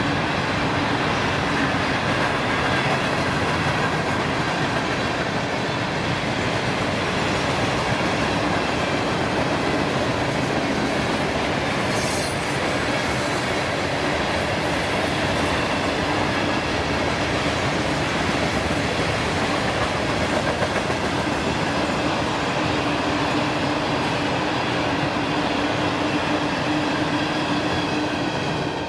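Railroad cars rolling past close by: a steady, loud noise of steel wheels on rail, with a faint steady tone running through it. It cuts off suddenly at the end.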